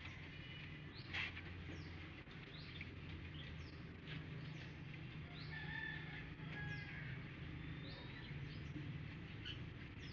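Birds chirping, with a chicken clucking now and then: many short, quick chirps over a faint steady low hum.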